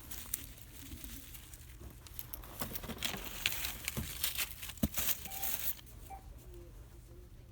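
Plastic shopping bag crinkling with sharp clicks and knocks of small items being handled. The clicks are densest from about two to six seconds in, then it goes quieter.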